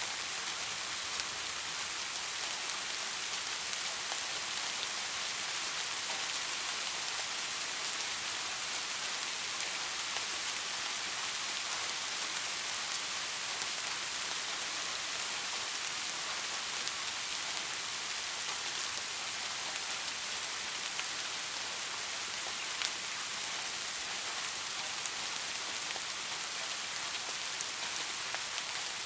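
Steady rain falling, a continuous hiss with many small drops tapping close by.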